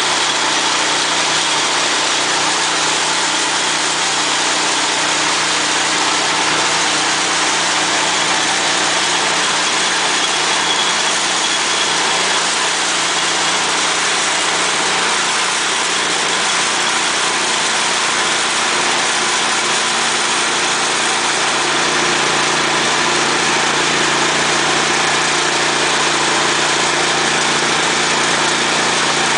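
Petrol engine running steadily as it drives an extruder, with a slight change in pitch about two-thirds of the way through.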